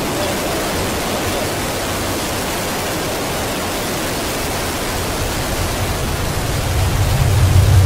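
Soyuz rocket engine roar heard as a steady noise, with a deep low rumble building from about six seconds in.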